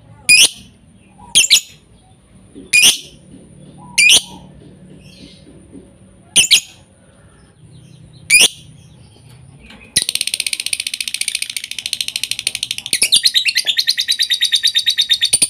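Lovebird calling: six sharp, shrill single chirps a second or two apart, then, about ten seconds in, a long, rapid, unbroken trill that grows louder a few seconds later.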